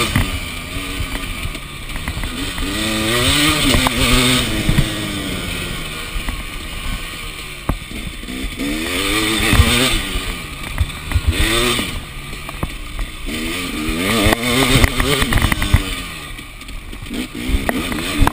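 KTM enduro motorcycle engine under way, revving up and easing off again and again, its pitch rising and falling several times.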